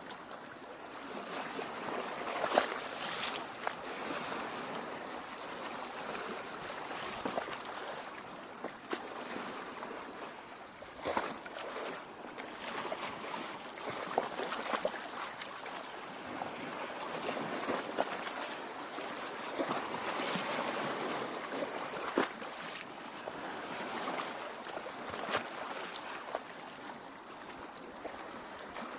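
Lake water lapping against the shore and rocks: a steady wash with irregular small splashes and gurgles.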